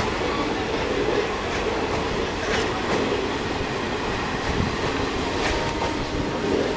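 Indian Railways passenger coaches rolling past a platform as the train departs: a steady noise of wheels on rail, with a few sharp clicks as wheels cross rail joints.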